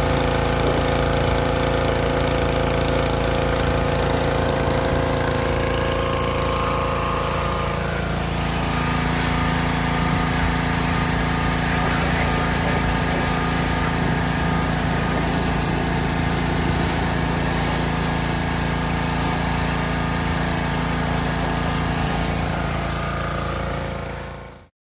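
A pressure washer runs steadily with a motor-driven drone, its pitch shifting about eight seconds in, and fades out at the very end.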